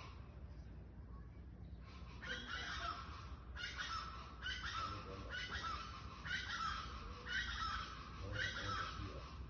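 A bird giving a run of harsh, grating calls, about seven in a row roughly a second apart, starting about two seconds in.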